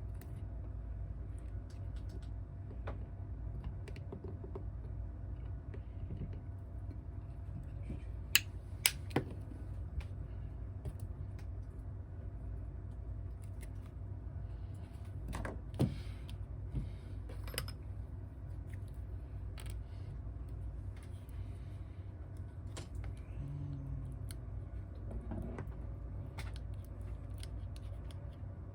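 Scattered small clicks and taps of hand tools handling smartphone parts during a repair, over a steady low hum. The sharpest clicks come in a cluster about eight to ten seconds in and again about fifteen to eighteen seconds in.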